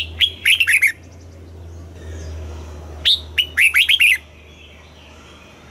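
Red-whiskered bulbul singing: two short, rapid song phrases, one at the start and another about three seconds in. Each opens with a sharp rising note and then runs into a quick string of notes, over a steady low hum.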